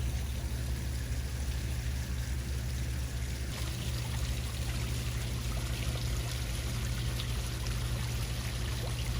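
Water running or pouring steadily, with a low steady hum underneath; the splashing gets brighter about three and a half seconds in.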